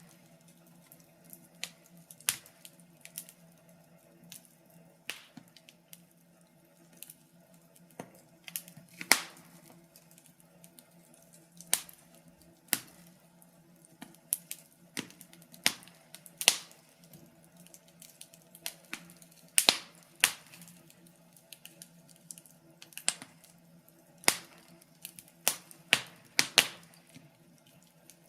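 Wood fire crackling in a fireplace: irregular sharp snaps and pops, a few markedly louder than the rest, over a faint steady low hum.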